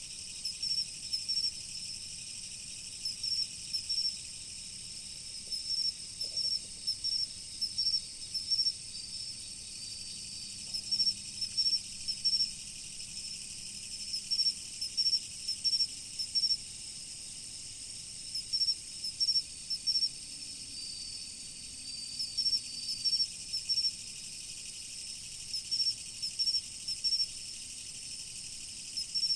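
Autumn insects calling: a steady high-pitched trill chorus, over which one insect's louder chirps come in clusters of quick pulses lasting a second or two, separated by short pauses.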